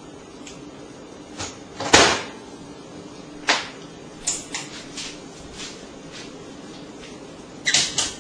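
Microwave oven door shut with a loud clack about two seconds in, followed by several lighter clicks and taps and a quick double click near the end.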